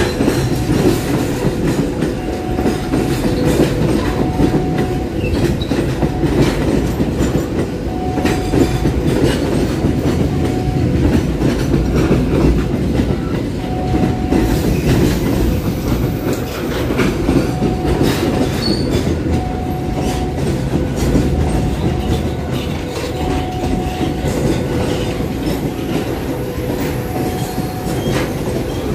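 Freight train of container flatcars passing close by: a steady rumble of steel wheels on the rails with clickety-clack over the rail joints and short faint wheel squeals now and then.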